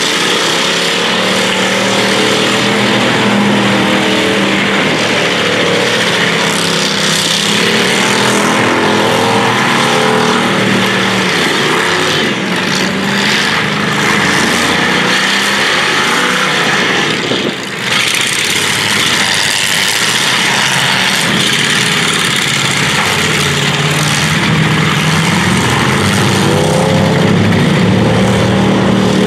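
Several big-car demolition derby engines running loud and unmuffled at once, revving up and down as the cars drive and ram each other in the dirt; the revving rises more clearly near the end.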